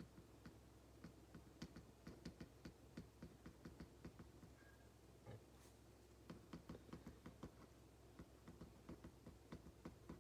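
Ballpoint pen writing on paper: faint runs of quick little taps and scratches of the pen strokes, with a pause of about two seconds midway.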